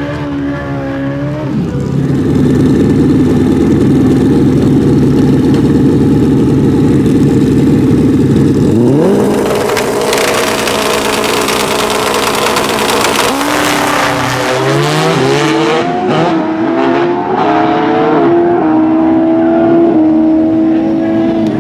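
Pro Street drag motorcycle engines held at steady high revs for several seconds, then a rising rev about nine seconds in as the bikes launch, followed by a loud full-throttle run lasting about six seconds. Near the end the engines drop back to lower, shifting revs.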